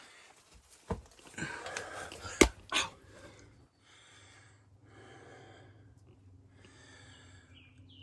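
A person breathing heavily, three long breaths in the second half, while scrambling over rocks. Near the start come a few sharp knocks and scuffs, the loudest about two and a half seconds in.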